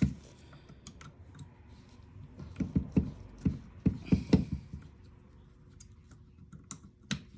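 Light clicks and taps of small parts being handled as a piece is taken off an airsoft rifle's front handguard, with a quick run of taps about midway and one sharper click near the end.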